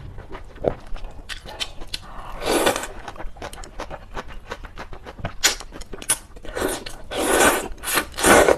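Close-miked eating of chicken and noodles: wet bites and chewing clicks, with several longer noisy bursts a few seconds in and near the end.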